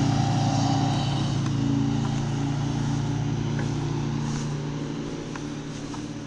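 Yamaha DragStar 1100's air-cooled V-twin engine running at a steady pitch and growing gradually quieter.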